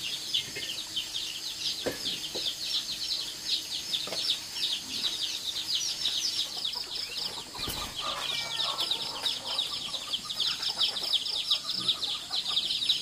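Chickens calling: a continuous stream of many high, short peeping calls overlapping each other, with a few lower calls in the middle.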